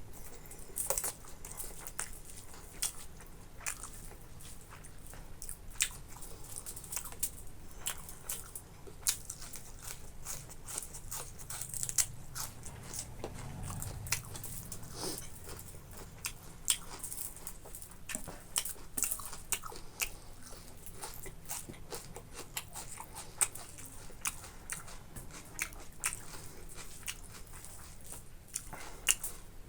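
Close-miked chewing and biting, a steady run of short wet clicks and crunches, from someone eating boiled pork, rice and salad.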